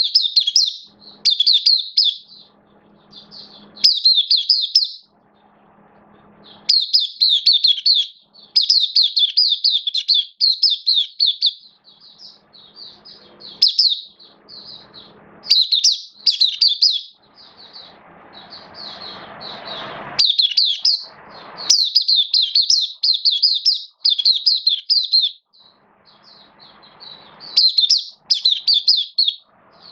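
White-eye (mata puteh) singing: rapid, high-pitched twittering phrases in repeated bursts separated by short pauses.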